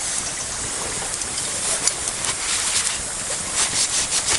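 Wood campfire crackling: a steady hiss with scattered sharp pops and crackles, growing busier near the end.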